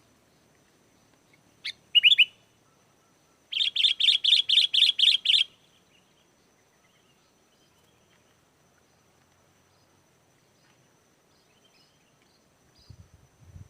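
Sooty-headed bulbul calling: a short couple of notes about two seconds in, then a fast run of about ten repeated notes lasting about two seconds. Faint low bumps come near the end.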